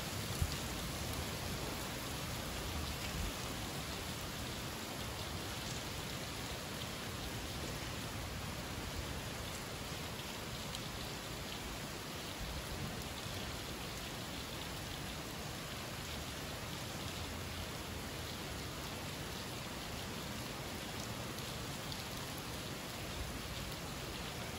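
Summer rain falling steadily: an even, continuous hiss with faint scattered drop ticks, and one sharper tick just after the start.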